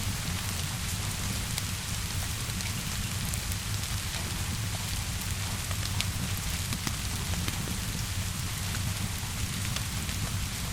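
Steady rainfall, a constant hiss with a low rumble underneath, mixed with scattered sharp crackles of a wood fire.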